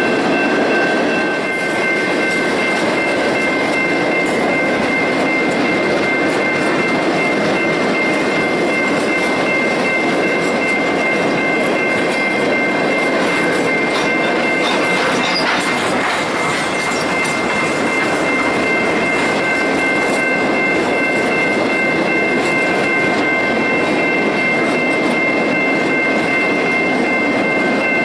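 Ore train cars rolling past on the rails: a steady rumble of wheels on track, with a steady high ringing whine of several tones held throughout.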